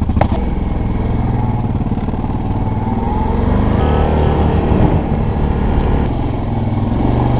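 Yamaha Grizzly ATV's single-cylinder four-stroke engine running under way in snow. Engine speed rises and falls back about midway through.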